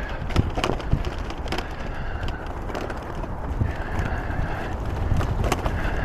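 Wind rumbling on the microphone of a moving bicycle, with many short clicks and rattles from the bike rolling over the path.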